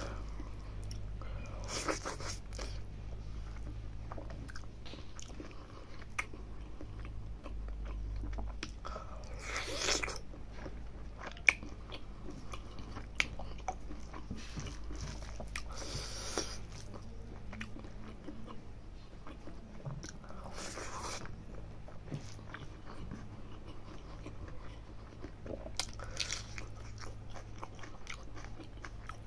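Close-miked chewing and wet mouth sounds of a person eating rice and mithun skin curry by hand, with small clicks throughout and louder bites or slurps about every five seconds. A steady low hum runs underneath.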